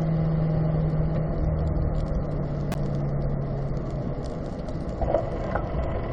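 Corvette V8 running at steady revs under a constant roar of tyre and road noise on a wet track. The engine note sags slightly and drops away about four seconds in, leaving the road noise.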